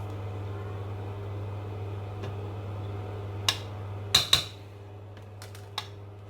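Metal kitchenware clinking: a few sharp knocks against a cooking pot, one close pair ringing briefly, over a steady low hum.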